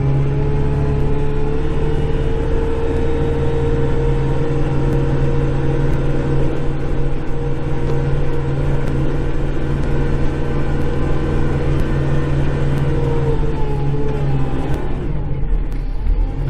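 Kubota Grand L5740 tractor's diesel engine running steadily, heard from inside the cab, with the engine note dipping slightly near the end.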